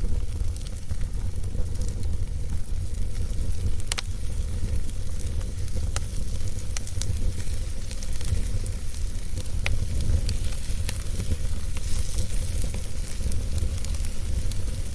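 Wood fire burning in a fireplace: a low, steady rumble of flames with scattered sharp crackles and pops from the burning logs, the clearest about four, six and ten seconds in.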